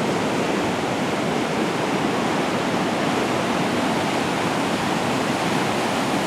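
Floodwater rushing through under a bridge in a steady, unbroken rush of water.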